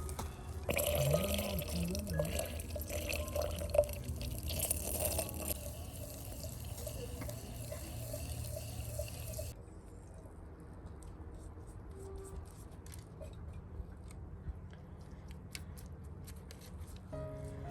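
Water splashing and trickling, then from about ten seconds in a quieter stretch with scattered light clicks.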